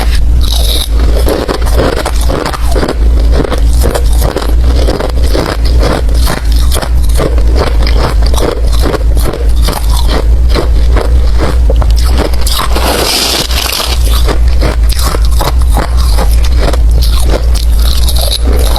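Close-miked crunching of ice being bitten and chewed, a dense run of sharp crunches several times a second over a steady low rumble.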